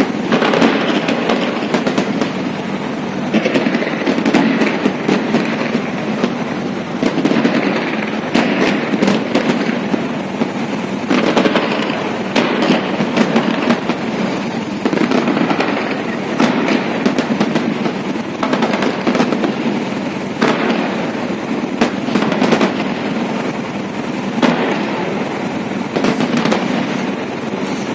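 Holiday fireworks salute: a continuous, dense run of aerial shell bursts and crackling, many overlapping bangs with no real pause.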